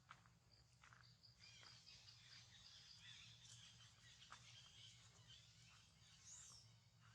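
Faint outdoor ambience: a steady high insect-like drone with scattered short high-pitched animal chirps and calls, the loudest a rising and falling call near the end, over a low steady hum.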